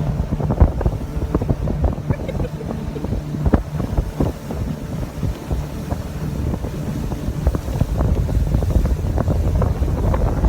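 Wind buffeting the microphone on a moving motorboat, with irregular gusty knocks over a steady low engine hum.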